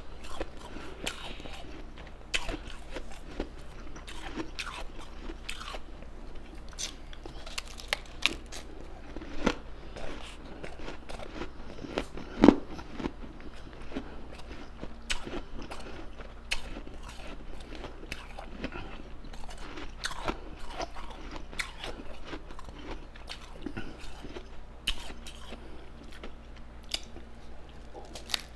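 Ice being bitten and chewed close to the microphone: an uneven run of sharp crunches, the loudest one about twelve seconds in.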